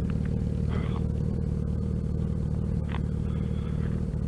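Motorcycle engine running steadily at low speed, a constant hum with no revving.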